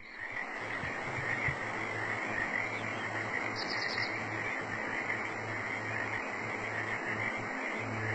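Steady chorus of calling frogs and insects, with a short high trill a little under four seconds in.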